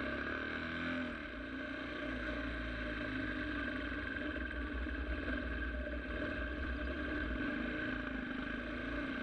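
Sport motorcycle engine running at a steady, unchanging pitch while riding, with a low rumble underneath.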